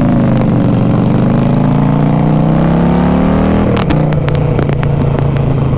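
Motorcycle engine accelerating, its pitch rising steadily for about three and a half seconds, then dropping and holding steady. A quick series of sharp clicks comes between about four and five seconds in.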